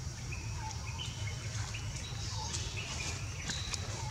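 Birds chirping: short, high calls scattered through, over a steady low rumble.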